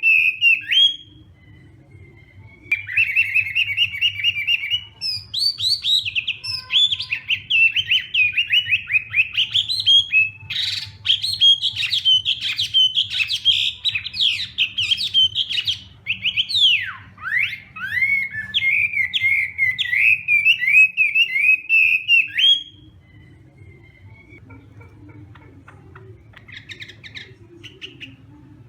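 Chinese hwamei (hoạ mi) singing a long run of fast, varied, loud whistled phrases that rise and fall in pitch. The song breaks briefly about a second in, then goes on until it stops about 23 seconds in, leaving only faint chirps, all over a low steady hum.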